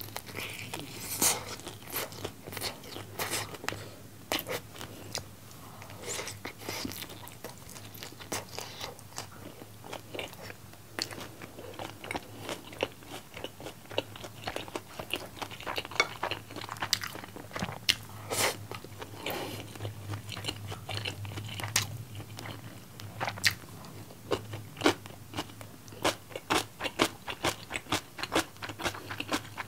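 Close-miked biting and chewing of sauce-coated fried chicken: a steady run of crisp crunches, uneven in spacing, with sharper louder bites every few seconds.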